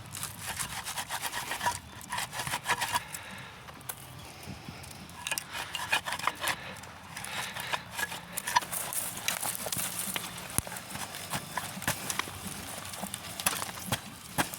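Boots scraping, crunching and knocking in snow and frozen ground, in irregular scuffs with sharp clicks, as an object stuck in the ground is worked loose.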